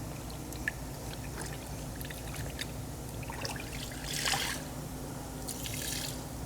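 Wet wash sponge full of rinseless wash solution: water trickling and swishing in a few short bursts, the loudest about four seconds in.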